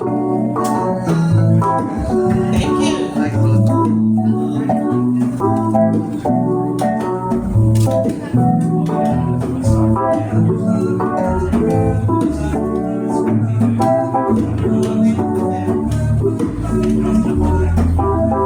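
Live band playing an instrumental passage: sustained organ-style keyboard chords with guitar over a moving bass line, no vocals.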